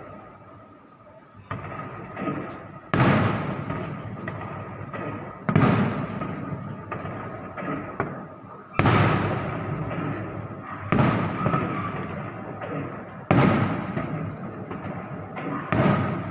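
Aerial fireworks shells bursting: about six loud booms two to three seconds apart, each fading away in a rumbling tail, with a few smaller pops among the first ones.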